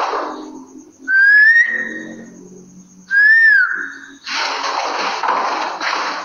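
Two whistled notes, the first rising and held, the second rising then falling, followed after about four seconds by a loud rustling hiss.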